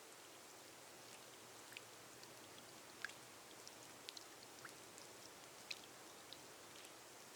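Faint, steady rain on a glass roof: an even hiss with scattered sharp drop ticks, the loudest about three seconds in.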